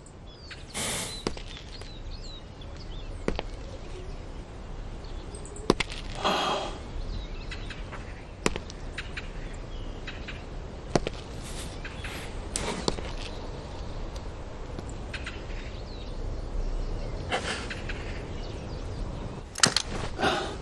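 Scattered sharp knocks and clicks with a few short swishing bursts over a low rumble: action-scene sound effects in a tense armed confrontation.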